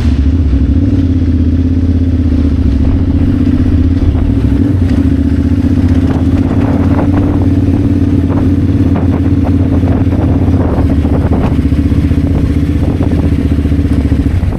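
KTM 990 Adventure R motorcycle's V-twin engine running at a steady speed, loud and close, with scattered short clicks and knocks in the middle; it cuts off suddenly near the end.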